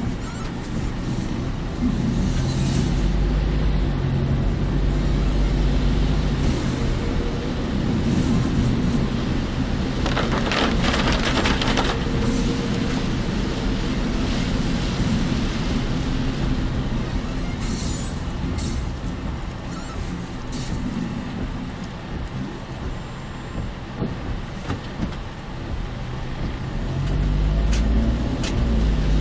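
Car driving, heard from inside the cabin: steady engine and road noise. A louder hiss swells for about two seconds some ten seconds in.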